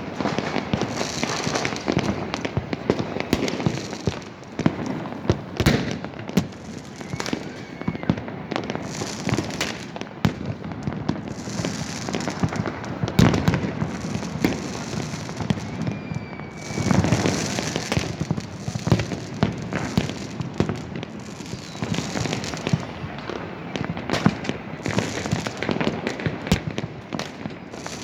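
Fireworks and firecrackers going off without a break: many overlapping bangs and crackling, with a couple of short whistles.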